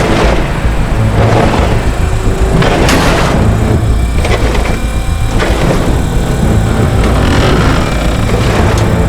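Heavy tow truck's diesel engine working hard under load as it winches a loaded grain hauler sideways, a deep rumble that swells and eases, with a sharp knock about three seconds in.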